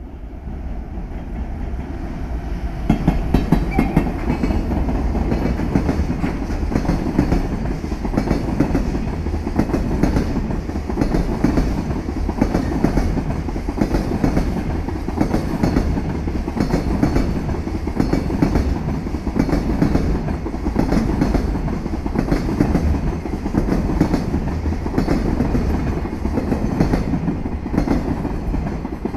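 Long freight train passing close by, its wheels clattering over rail joints in a steady run of clicks; it gets louder about three seconds in.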